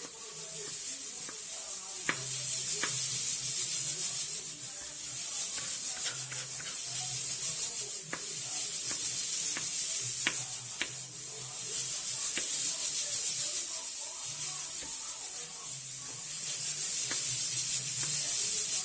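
Food frying in a pan: a steady sizzling hiss that swells and fades every few seconds, with a dozen or so scattered sharp clicks.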